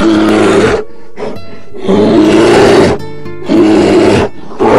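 A large animal roaring four times in a row, each rough, deep roar lasting under a second with short gaps between, over background music.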